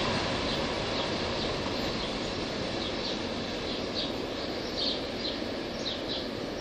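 Rumble of a freight train fading as it moves off down the line, with a small bird chirping over and over, more often near the end.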